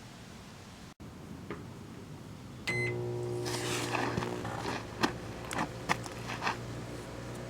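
Microwave oven being started: a short electronic beep about two and a half seconds in, then the steady hum of the oven running, with a few sharp clicks over it.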